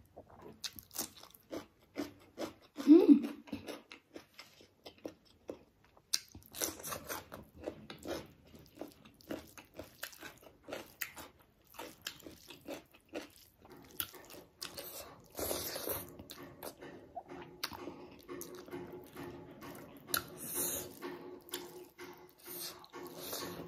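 Close-up eating sounds: chewing with wet mouth clicks and smacks as rice and chicken curry are eaten by hand, a quick irregular patter of small clicks. One louder short sound about three seconds in.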